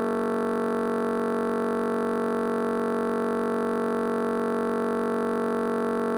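A steady electronic drone, a held synthesizer chord of background music that never changes in pitch or loudness.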